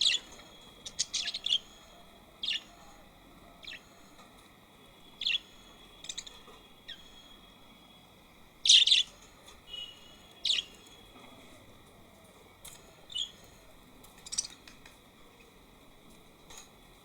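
Birds giving short, sharp, high-pitched chirps at irregular intervals, the loudest about nine seconds in, over a steady high-pitched tone in the background.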